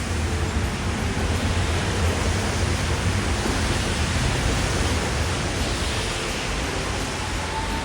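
Steady hiss of rain and tyres on a wet street, with a low hum underneath; a faint rising whine begins near the end.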